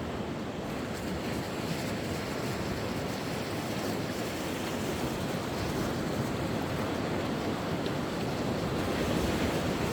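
Sea waves washing onto the shore: a steady rushing that swells a little near the end.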